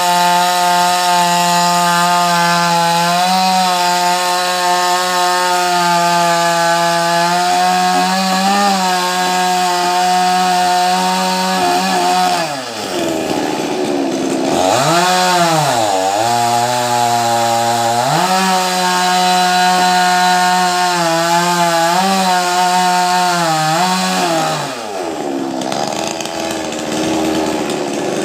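Two-stroke chainsaw cutting a coconut palm, running at a high, steady pitch. The engine note falls away and comes back up a couple of times around the middle, then drops again near the end.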